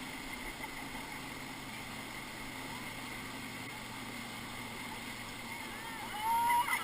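Steady rush of whitewater from the Ocoee River's rapids around a raft.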